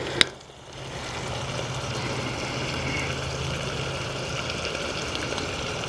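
Chicken frying in a billy pot over a camp stove: a steady sizzle with a low even hum underneath, after a single short tap just as it begins.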